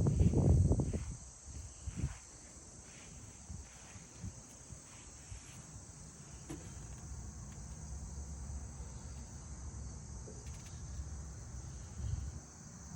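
Crickets chirping steadily in a high, even trill, with a loud low rumble in the first second that then drops away, leaving a faint low background and a few soft clicks.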